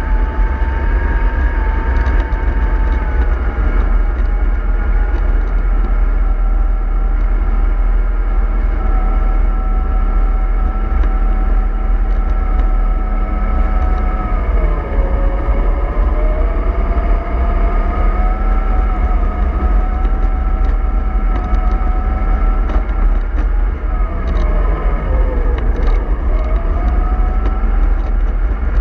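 MAN 24.310 bus running under way: a low engine rumble with a steady whine above it. The whine drops sharply twice, about fifteen seconds in and again near the end, then climbs back, as the revs change.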